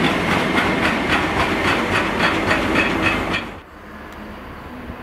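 Freight wagons loaded with steel coils rolling past close by, their wheels clicking over the rails about four times a second. About three and a half seconds in the sound cuts off suddenly and gives way to the quieter, low running of a Class 66 diesel locomotive further off.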